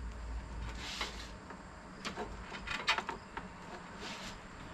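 Scattered light clicks and knocks of things being handled, with two short rustling hisses, about a second in and again near the end.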